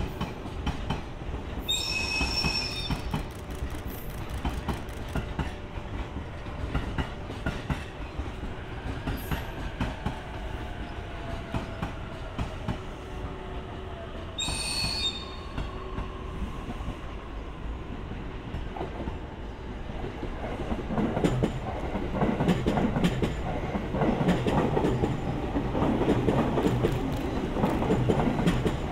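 EF81 electric locomotive slowly hauling a new E131 series train set, running with a steady rumble. Short high-pitched wheel squeals come about two seconds in and again about fifteen seconds in. Wheels clicking over the rail joints grow louder from about twenty seconds in as the train draws closer.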